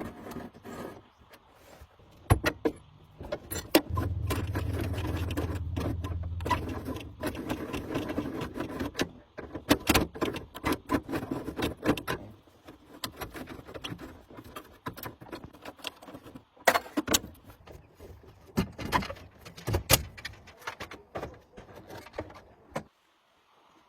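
Workshop work on metal parts: repeated sharp clinks and knocks of tools and components, with a steady motor hum lasting about three seconds near the start. The sounds stop abruptly near the end.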